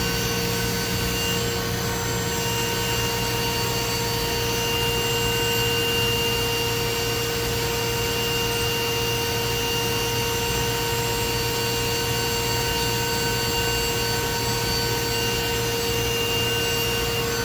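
DMG Mori DMC 1035V vertical machining center running a machining program on an aluminium part, its spindle turning at about 10,200 rpm. It makes a steady whine with a low hum under it, over the continuous hiss of high-pressure coolant sprayed through the spindle.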